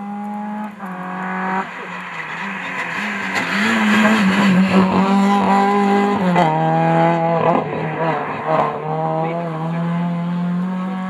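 VW Golf Mk2 rally car engine at racing speed, its pitch climbing and then dropping sharply at gear changes several times, loudest in the middle.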